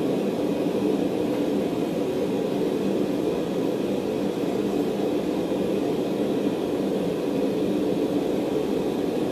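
Forge running with a steady, even rushing noise while steel heats in it; no hammer blows.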